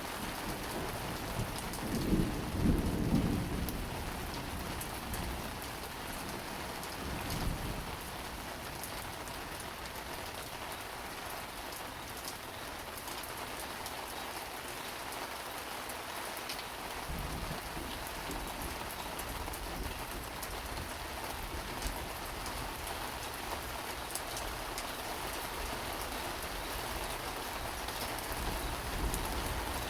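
Steady rain of a summer thunderstorm, hissing and pattering, with a loud low rumble of thunder about two seconds in and fainter rumbles later.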